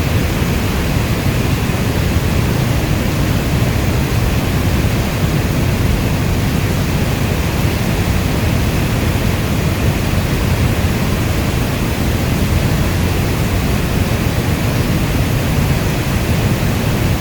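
Steady heavy rainfall: an even, dense hiss heavy in the low end, with no single drops, thunderclaps or other sounds standing out.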